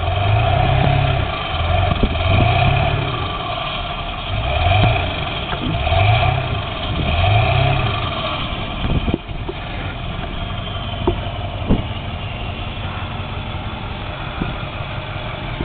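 Ford F-350 pickup's engine revving up and dropping back in about five surges while its wheels spin on the icy, snow-covered hill, then settling to a steadier run after about nine seconds.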